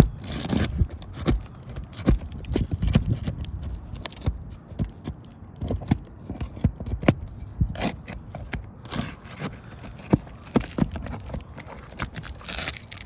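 Scattered, irregular knocks, taps and scraping from hands-on work around nailed building material, with several sharper raps standing out.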